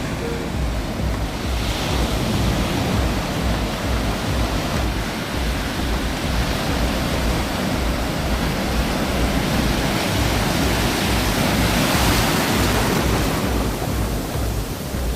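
Steady rushing noise with a choppy low rumble, like wind buffeting a microphone, swelling a couple of seconds in and again near the end.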